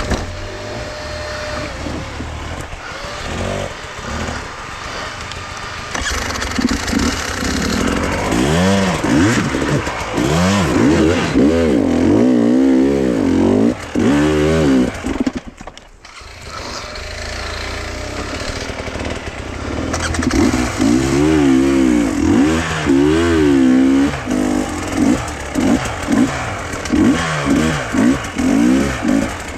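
A small engine running, its speed rising and falling again and again. It drops away briefly about halfway through, then picks up again.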